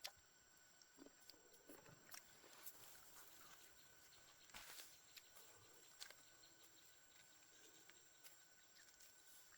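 Near silence: faint scattered clicks and light rustling, with a short louder rustle about halfway through, over a faint steady high-pitched hum.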